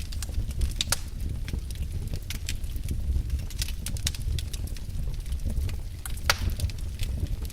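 Wood fire burning in a fireplace, crackling with frequent sharp pops over a steady low rumble; one louder pop about six seconds in.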